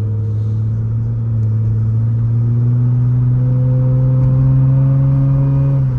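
Straight-piped Nissan Altima exhaust droning as the car gently accelerates. The pitch climbs slowly and evenly for about six seconds, then drops right at the end as the throttle is eased off.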